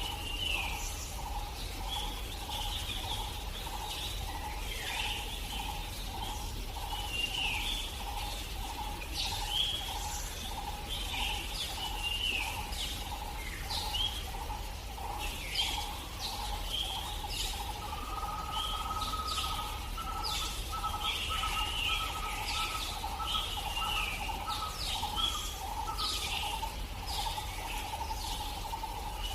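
Birds calling, a dense run of short chirps over a steady, rapidly pulsing hum. A higher pulsing tone joins in after about eighteen seconds and stops again near the end.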